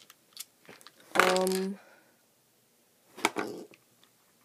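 A few light clicks of loose plastic puzzle pieces from a puzzle that has come apart. A short voiced exclamation comes about a second in, and a brief breathy vocal sound follows a little after three seconds.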